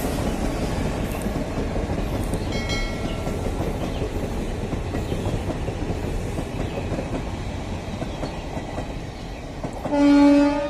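Railway coaches rolling past with a steady rumble of wheels on the track. Near the end a train horn blows loudly, one held pitched note.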